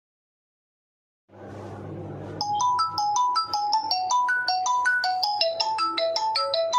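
Mi Note 5 Pro's loudspeaker playing a ringtone, a quick melody of short electronic notes that starts about two seconds in and cuts off abruptly at the end, over a low mains hum and hiss. The ringer working again is the sign that the ringer IC repair has cured the no-sound fault.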